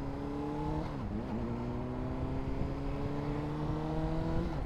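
Honda CBR600RR inline-four engine accelerating hard, its pitch climbing steadily, dropping sharply about a second in and again near the end as it shifts up a gear.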